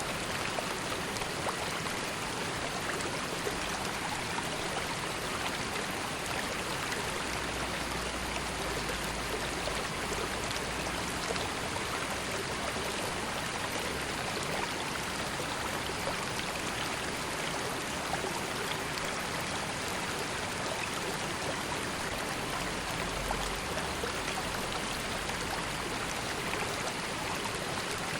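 River water flowing and burbling steadily, a continuous even rush with small splashes and trickles through it.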